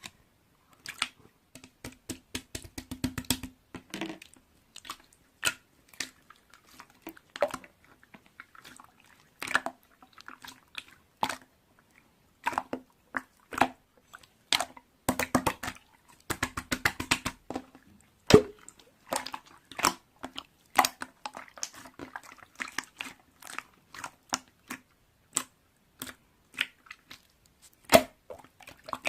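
Irregular clicks and taps of small objects being handled, with a couple of quick runs of rapid tapping and a faint steady hum underneath.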